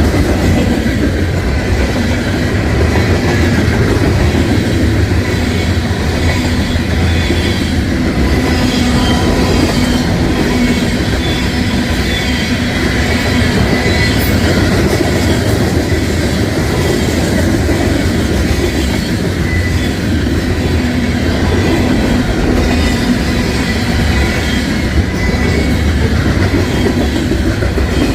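Union Pacific manifest freight train rolling past: a steady, loud rumble of freight cars, with wheels clacking over rail joints and a thin, steady squeal from the wheels.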